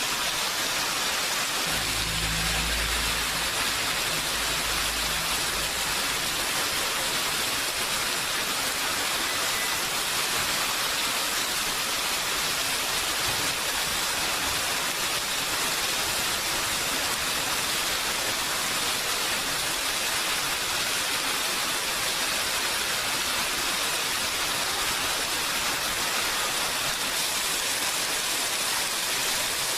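Steady, heavy rain falling in an even hiss. A low rumble comes in about two seconds in and fades out a few seconds later.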